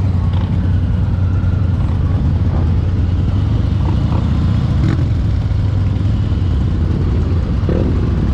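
Motorcycle engine running steadily, a low, even rumble that holds the same level throughout.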